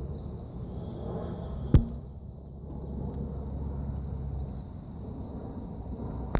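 Chorus of insects such as crickets, trilling steadily in high repeated chirps over a low steady rumble, with one sharp knock just under two seconds in.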